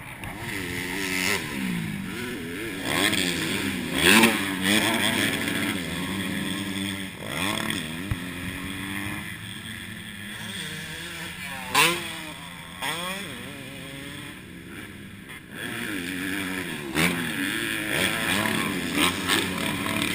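Dirt bike engine revving up and down over and over, its pitch climbing and dropping every second or two, with a few sharp knocks.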